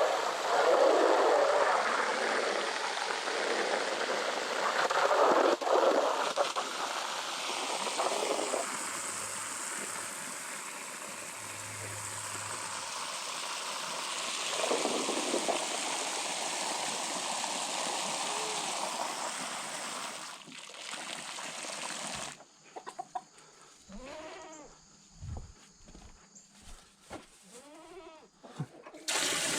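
Steady rush of running water topping off a livestock water trough. About 22 seconds in it gives way to several short goat bleats.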